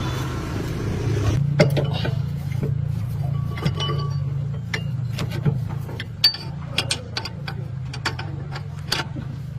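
Metal tools and parts clicking and clinking in irregular light knocks, over a steady low hum.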